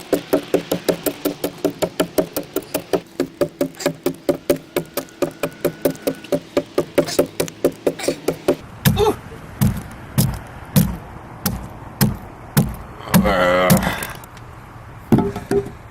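Adze chopping into the pine hull of a dugout canoe: a fast, even run of light strokes, about four or five a second, each with a hollow ringing tone, then from about nine seconds in, slower, heavier single chops about once a second.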